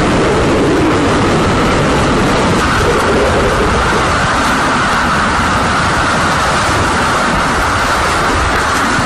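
Hurricane-force wind roaring steadily, with a high whistle running through it.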